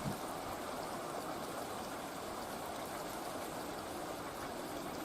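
Steady rushing of running water, like a small stream.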